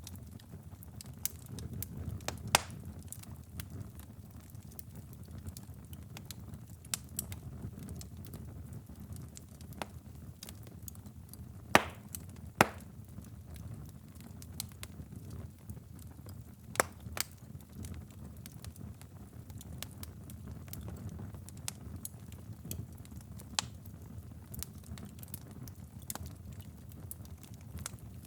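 Wood fire crackling: irregular sharp pops and snaps, a few of them loud, over a low steady rumble of burning.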